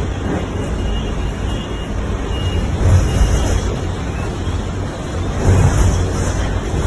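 Storm wind rushing and gusting, with a heavy low rumble of wind on the microphone; it swells about three seconds in and again near the end.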